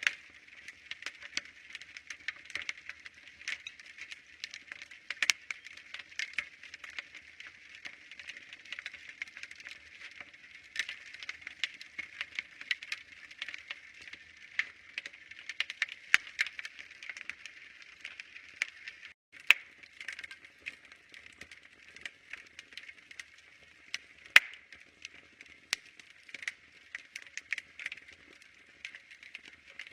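Wood fire crackling: a dense run of small snaps and pops over a soft hiss, with two louder pops about two-thirds of the way through.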